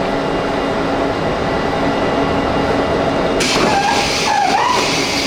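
A 651 series electric train idles at the platform with a steady hum from its onboard equipment. About three and a half seconds in, a loud hiss of air starts as the passenger door closes, lasting about two seconds with a short wavering tone inside it.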